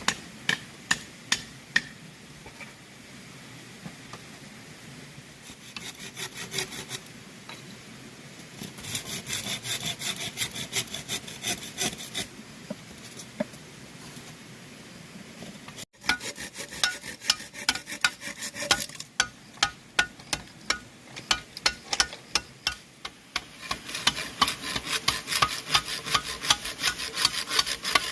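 A hand saw cutting bamboo in steady back-and-forth strokes, about two to three a second. The sound breaks off sharply about halfway through and then the strokes resume.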